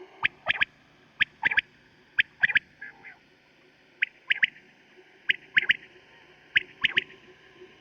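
Quail calling over and over in quick three-note phrases, about six phrases here, roughly one every second and a quarter.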